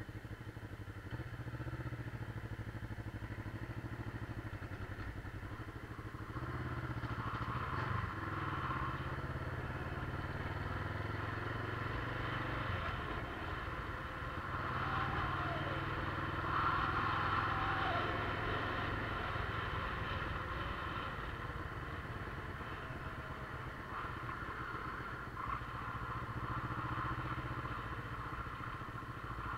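Motorcycle engine running steadily while the bike is ridden, its note shifting a little and growing louder at times.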